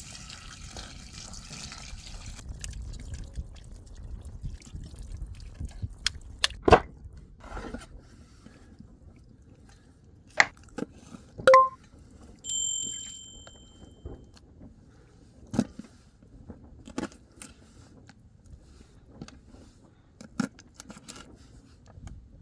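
Cooking gear handled at a camp kitchen: scattered knocks and clicks of utensils and cookware, with a short metallic ring that fades over about a second, about twelve seconds in.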